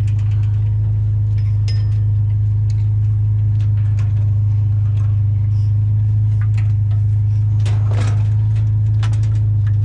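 Pickup truck driving: a loud, steady low engine drone, with scattered light clicks and rattles.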